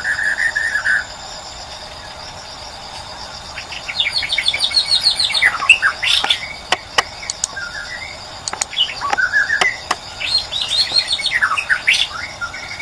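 White-rumped shama (murai batu) singing: three bursts of varied whistled phrases mixed with sharp clicking notes, over a steady insect buzz.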